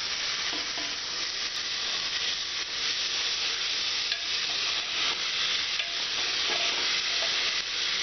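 Chopped tomatoes sizzling as they hit hot oil and browned onions in a pressure cooker pan, with a steady frying hiss while a ladle stirs and scrapes the bottom of the pan.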